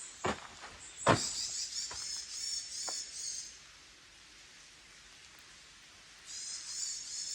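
Two sharp thuds about a second apart, then high chirping birdsong in two spells with a quiet pause between.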